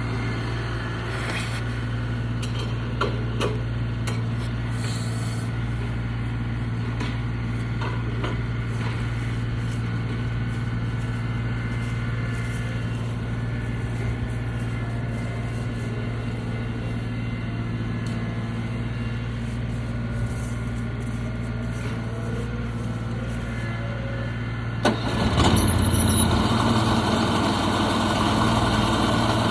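Portable sawmill engine running steadily with a low hum, with a few short knocks. About 25 seconds in the sound gets louder and fuller.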